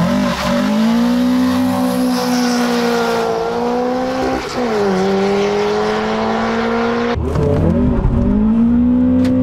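Car engine pulling hard under full throttle. Its pitch climbs steadily and drops briefly at gear changes about four and a half seconds and about seven seconds in.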